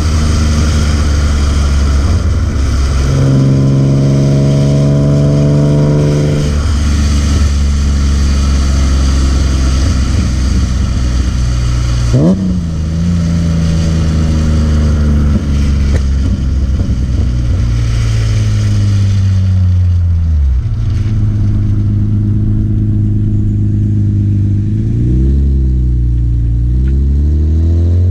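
BMW E36 M3's S50B30 straight-six engine pulling under throttle: revs held steady, a sharp rev spike about twelve seconds in, then revs falling away slowly before climbing again near the end.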